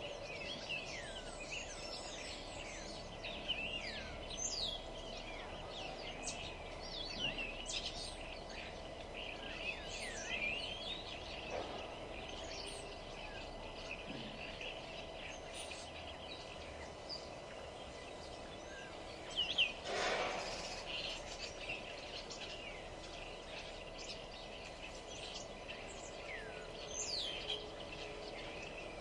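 Several songbirds chirping and singing in quick rising and falling whistles, over a steady low background hum. One louder call stands out about twenty seconds in.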